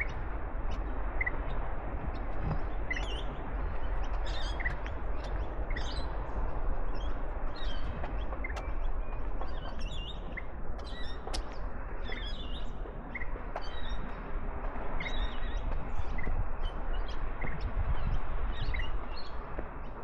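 Small birds calling in coastal scrub: one gives a short, repeated chirp every second or two, among busier, higher calls, over a steady low rumble.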